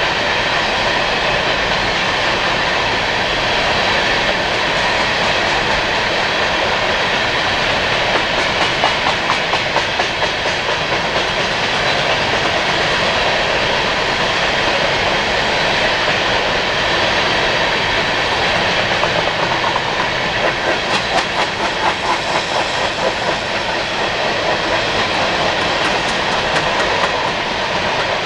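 Coal train hopper cars rolling past with a steady rumble of wheels on rail. Runs of rhythmic wheel clicking come in about a third of the way through and again near the end.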